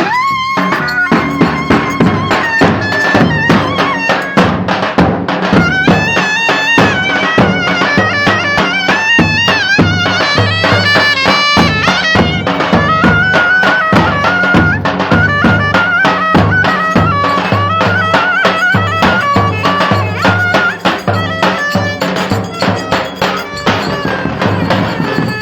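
Live Turkish folk dance music: a reedy wind instrument plays a fast, ornamented melody over a steady drum beat.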